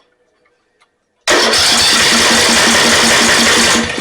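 Snapper riding mower's engine cranked by its electric starter, starting about a second in and turning over in a rhythmic chug about five to six times a second without catching, then cutting off near the end. The owner suspects a break or short in the safety-switch wiring that grounds the ignition.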